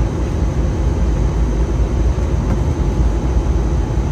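Steady low rumble of engine and airflow noise inside an Airbus A320 cabin in flight, with a faint steady hum above it.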